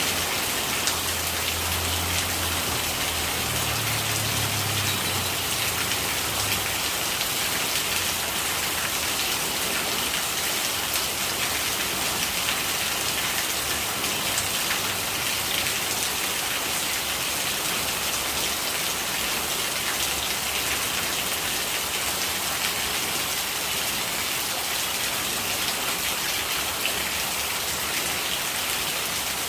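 Steady rain falling on surfaces, a dense, even patter of drops. A low rumble sits underneath for the first several seconds.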